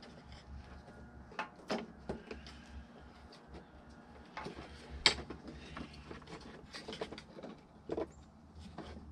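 Irregular plastic clicks and knocks as clips are undone and a section of a plastic HVAC heater box is worked loose by hand, with a sharper click about five seconds in.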